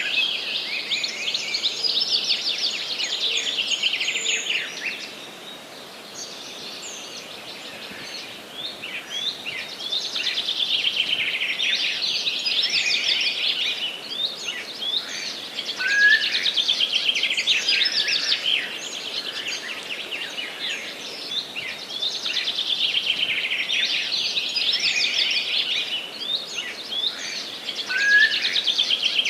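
Songbirds singing: fast, high trilled song phrases a few seconds long repeat every few seconds, with short chirps between them, over a faint steady hiss.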